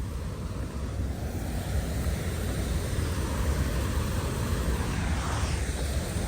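Wind buffeting the microphone with a low rumble, over a steady rush of falling water that slowly grows louder.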